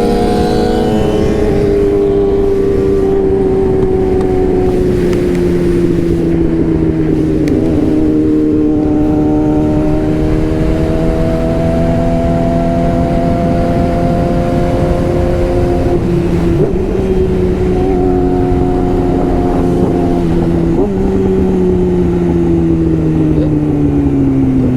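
Sportbike engine running at steady cruising revs under constant wind rush, its pitch drifting slowly up and down. About three-quarters of the way through the pitch jumps briefly, then falls away steadily as the bike slows.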